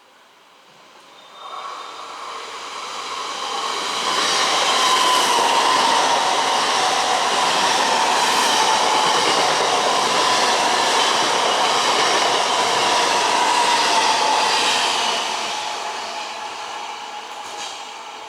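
A train passing close by at speed: the rail noise builds over about four seconds, stays loud for about ten, then fades away, with a steady high whine running through the pass.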